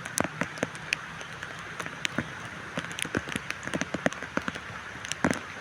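Rain falling, a steady hiss of rain with many irregular sharp taps of single drops striking a surface close by.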